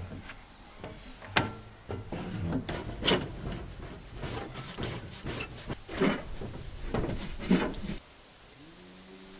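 Hand-tool woodworking: wood rubbing and scraping, broken by four sharp knocks of wood on wood. It stops abruptly about eight seconds in.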